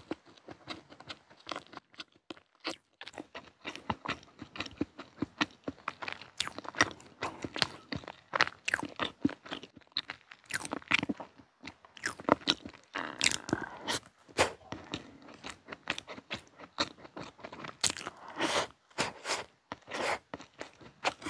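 Close-miked chewing of soft chocolate pound cake: a steady run of wet mouth clicks and smacks, with the fork now and then tapping and scraping the wooden board.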